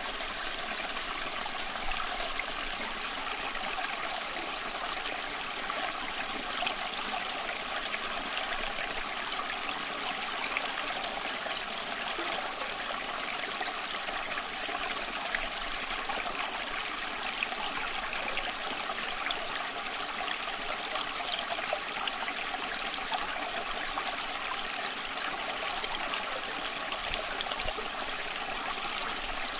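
Water of a small stream flowing and trickling over stones, a steady babble with small splashes.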